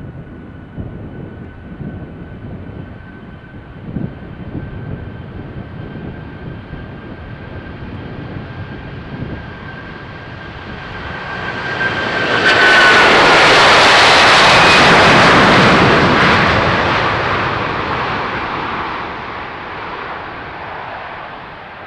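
Airbus cargo jet on its takeoff run. A steady high engine whine builds, drops in pitch about halfway through as the jet passes, swells into a loud jet rush, then fades away.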